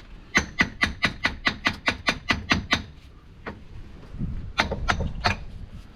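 Hammer blows on metal: a quick run of sharp knocks, about four or five a second, for a few seconds, then a pause and a few more strikes near the end.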